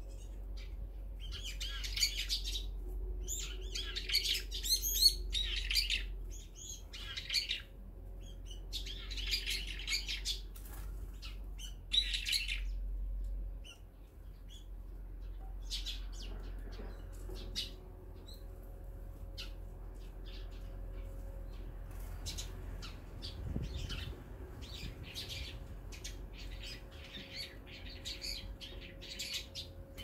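Wild songbirds chirping and calling in quick clusters of notes, loudest and busiest in the first half. After a short lull about halfway through, shorter chirps come scattered.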